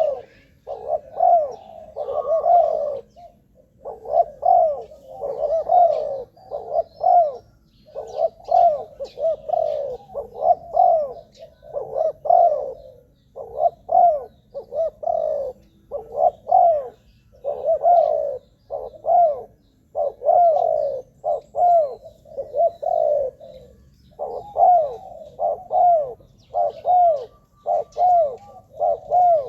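Spotted dove cooing over and over, short phrases of a few quick hooting notes following one another almost without a break.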